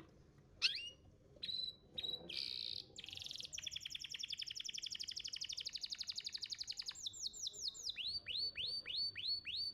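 Domestic canary singing: a few short chips and a brief buzzy note, then a long, rapid trill. About seven seconds in, this changes to a run of down-slurred whistled notes at about three a second.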